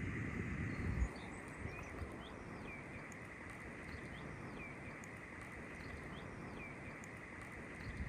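Outdoor ambience of small birds chirping in short repeated calls, about one or two a second, over a steady high hiss. Wind rumbles on the microphone for the first second, then drops away.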